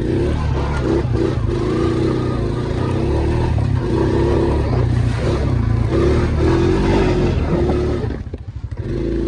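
ATV engine running under throttle, its note stepping up and down. About eight seconds in it briefly drops off, then picks up again.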